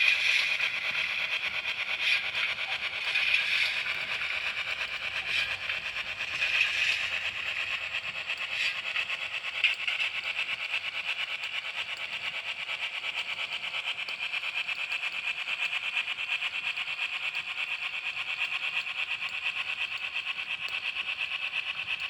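Model train running on its track: a steady electric motor and gear whine, with a few sharp clicks of the wheels over rail joints in the first ten seconds.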